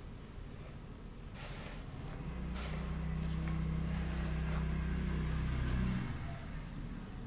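Hair being brushed and rubbed in short rustling strokes. A low steady hum swells in under them about two seconds in and stops about six seconds in.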